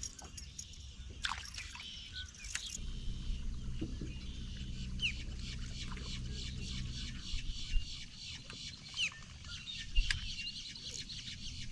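Birds chirping and calling at a pond. A low steady hum runs for a few seconds in the middle, and there are a few sharp knocks.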